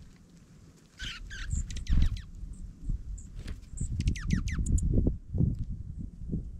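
Dark-eyed juncos giving quick runs of short, high chip and twitter calls, each sweeping downward, mixed with low rustling and bumping close to the microphone.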